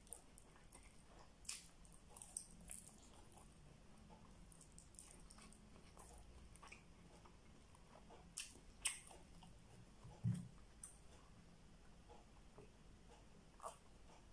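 A person chewing a mouthful of spicy chicken adobo and rice eaten by hand: faint, scattered soft clicks and wet mouth sounds, a few of them a little louder.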